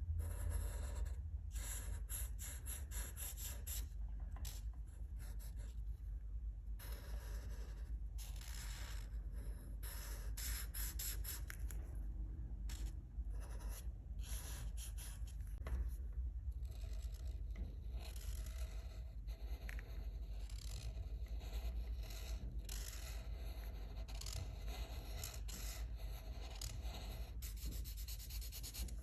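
Colouring on paper: quick runs of scratchy back-and-forth strokes with short pauses between them, over a steady low hum.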